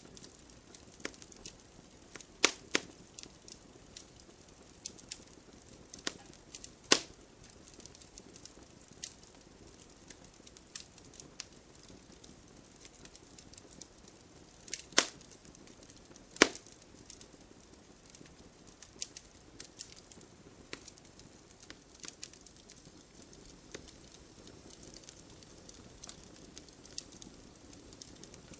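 Wood fire crackling in a fireplace: a low steady hiss with irregular sharp pops and snaps, a few louder cracks standing out among the small ones.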